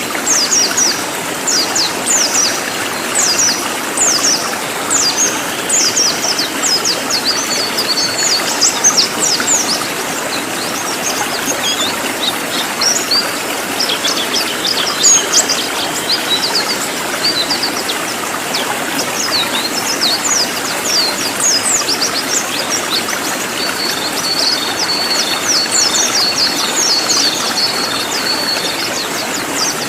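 Cililin songbird singing in fast, dense volleys of sharp, high, falling notes, with a short level trill near the end, over a steady rush of flowing water.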